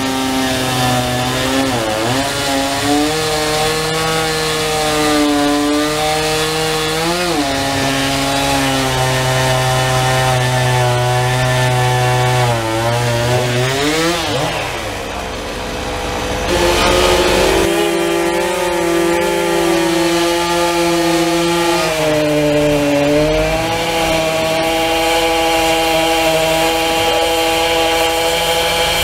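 Gas chainsaw running at full throttle and cutting wood. Its pitch sags under load and climbs again several times, with a short easing-off about halfway through before it revs back up.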